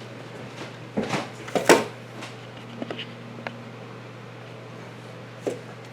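Handling noises: a few sharp clicks and rustles, the loudest about a second and a half in, then scattered small clicks, over a steady low hum.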